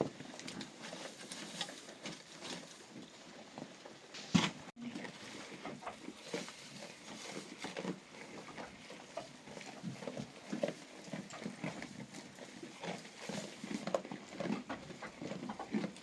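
Irregular light taps and clatter, with one louder knock about four seconds in.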